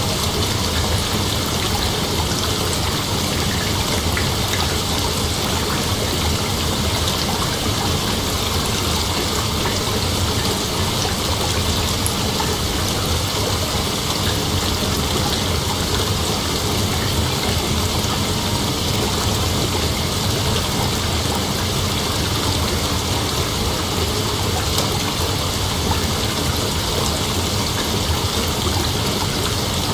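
Steady outdoor ambience: a continuous, even hiss with no distinct calls or events.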